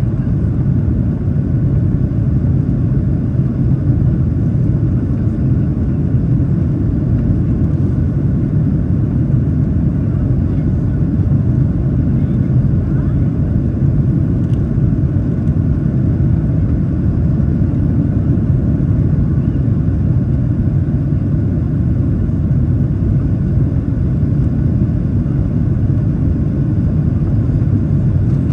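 Steady low cabin rumble of a Boeing 737-800 in its climb after takeoff: the CFM56-7B engines running at climb power and air rushing past the fuselage, even throughout.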